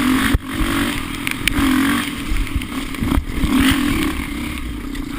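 Off-road vehicle engine running on a rough, muddy trail, its pitch wavering as the throttle changes, with sharp knocks and clatter from the machine jolting over the ground, twice.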